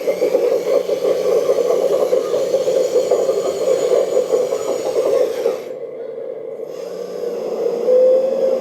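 K961 336GC RC hydraulic excavator's hydraulic pump running with a steady whine while the grab attachment is worked. The sound drops back for about a second near six seconds in, then picks up again.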